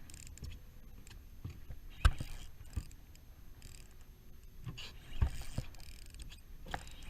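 A few sharp knocks and thumps among rustling handling noise, the loudest about two seconds in and another pair about five seconds in.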